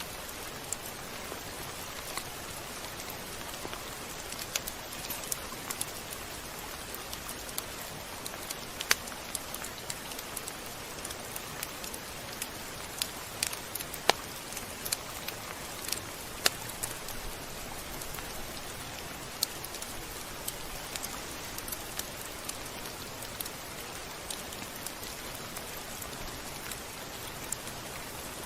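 Steady rain falling, an even hiss with scattered sharp drop ticks, a few louder ones around the middle.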